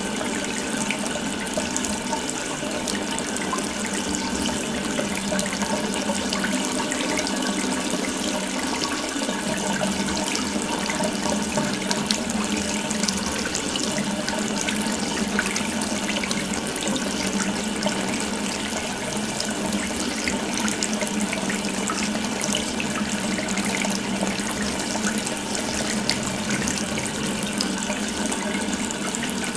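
Water running steadily from an open tap, a continuous stream splashing with no break.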